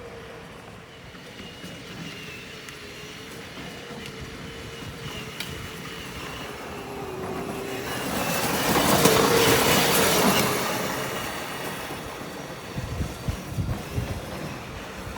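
Electric ride-on toy car running on 24-volt upgraded Stage IV motors and gearboxes. It gives a steady whine with rolling wheel noise that swells loudest about two-thirds of the way through as it passes close, then fades. A few low thumps come near the end.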